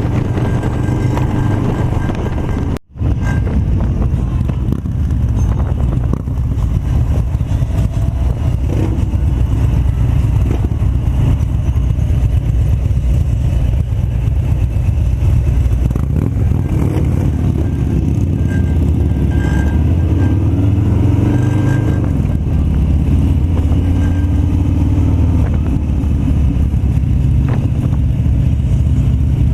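Harley-Davidson Fat Bob's V-twin engine running under way, with pitch shifting as the revs change. The sound drops out for a split second about three seconds in.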